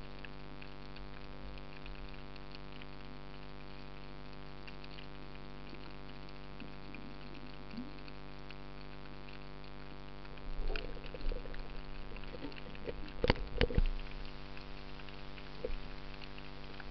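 Steady underwater-style water noise with a constant hum. From about ten seconds in, irregular knocks and crackles start, with a couple of sharper strikes near the end.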